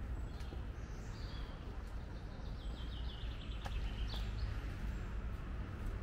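A songbird sings one phrase: a run of quick chirping notes stepping down in pitch, ending with a brief upturned flourish, over a steady low rumble.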